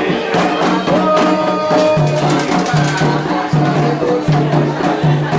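Candomblé ritual music: hand drums beating a steady rhythm under sung chant.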